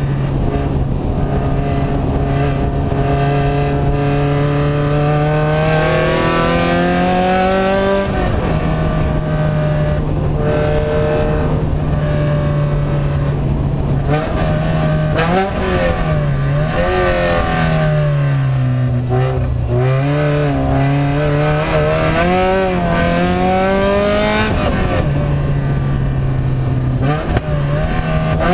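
Vehicle engine with an open exhaust running under way, its revs rising and falling as it drives; the pitch climbs around six to eight seconds in and dips and recovers in the middle.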